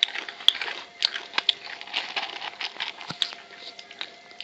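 Irregular quick clicks, taps and rustles of small objects being handled, over a faint steady hum.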